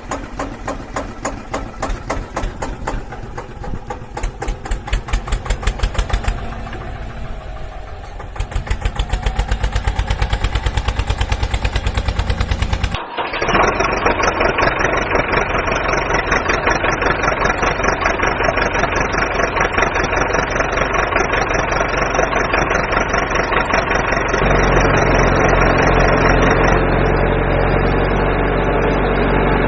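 Tractor engine running with a rhythmic chug. About thirteen seconds in it cuts abruptly to a different engine recording, which turns louder and deeper near the end.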